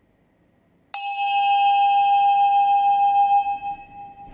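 A single bell struck once about a second in, ringing on one clear tone with higher overtones and slowly dying away.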